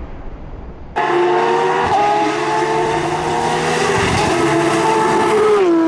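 Sports car driven hard: a loud, sustained high-pitched tone cuts in abruptly about a second in, holds steady and dips slightly near the end.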